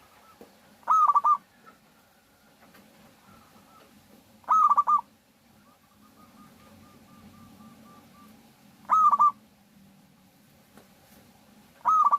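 Zebra dove (local perkutut) cooing: four short phrases of quick notes, one every three to four seconds. A fainter, evenly repeated run of notes sounds between the second and third phrases.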